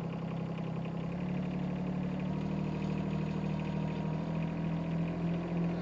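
Shanding 1.2-ton mini excavator's engine running steadily. Its revs come up slightly about a second in, then hold above idle.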